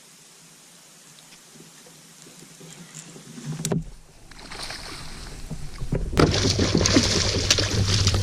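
A hooked bass being brought to a kayak and landed: water splashing and knocking and handling noise against the boat. Quiet for the first few seconds, a single knock about three and a half seconds in, then loud splashing and rustling from about six seconds on.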